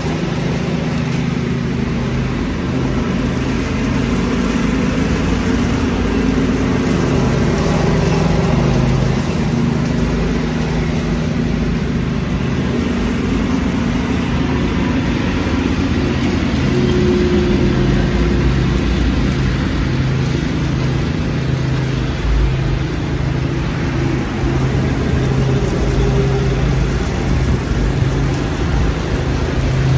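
Small gasoline engine of a leaf-vacuuming machine running steadily and loudly, with slight wavers in pitch.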